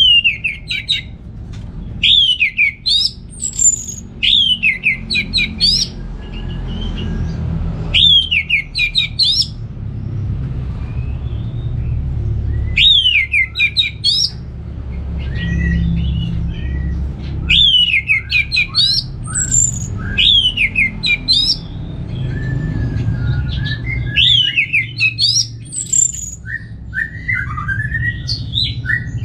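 Orange-headed thrush singing: short phrases of clear, falling whistled notes, repeated every few seconds, with softer chirps near the end, over a steady low rumble.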